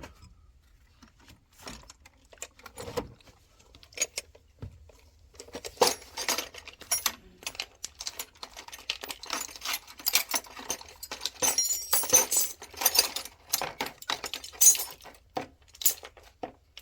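Metal parts and tools clinking and rattling as they are handled, in irregular clusters that become dense and busy from about five seconds in.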